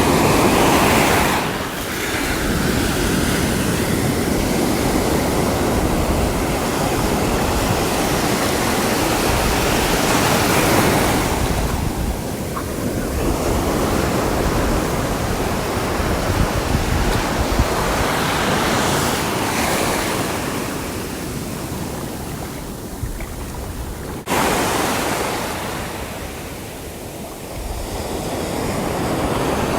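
Sea surf washing onto the shore in a continuous rush that swells and eases about every ten seconds, with one abrupt jump in loudness near the end.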